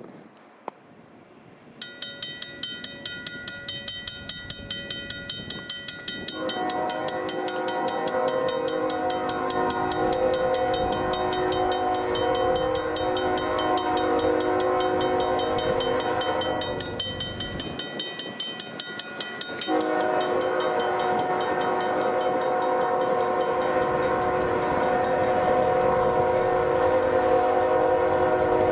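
Freight locomotive horn, a GE ES44AC leading, sounding two long blasts: one of about ten seconds, then after a short break a second long blast. A fast pulsing ringing starts about two seconds in and goes on under the horn.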